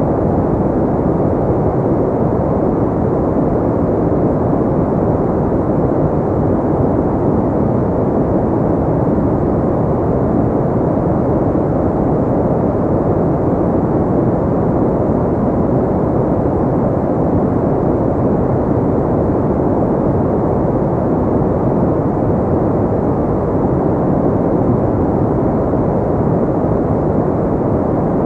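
Steady pink noise: an even, deep rushing hiss with the treble rolled off, unchanging throughout.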